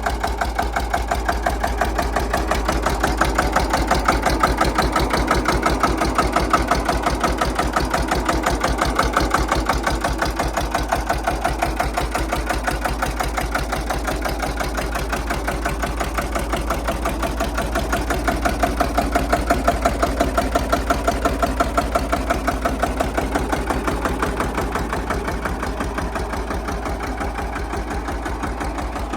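Vintage tractor engine idling with a fast, even firing beat.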